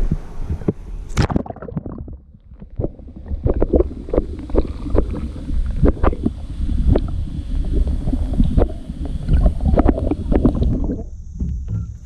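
Wind buffeting the microphone with a low rumble, over many irregular knocks and clatters of handling aboard a fishing kayak, fading near the end.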